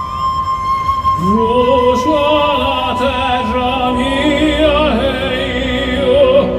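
Live orchestral music with an operatic tenor singing with wide vibrato; the voice comes in about a second in with an upward slide, over a held woodwind note.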